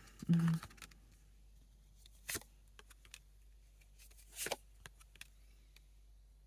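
Tarot cards being handled and laid on a table: two sharp card slaps about two seconds apart, with a few faint small ticks between them.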